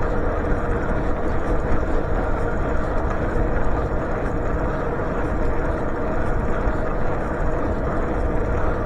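Steady wind and road noise while riding a bicycle.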